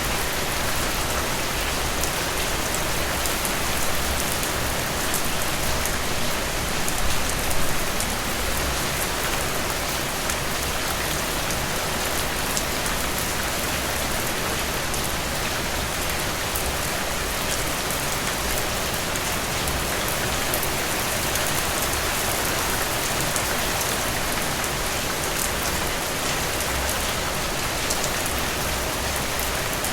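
Heavy rain falling steadily, a dense even hiss with many single drops ticking through it, briefly a little louder about seven seconds in.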